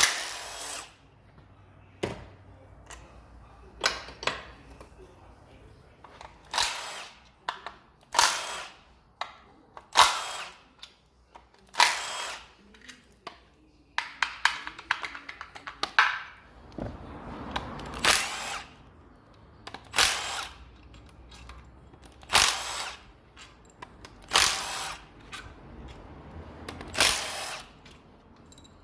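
Power tool run in short bursts, about one every two seconds, with small clanks of tools between, undoing bolts during engine removal.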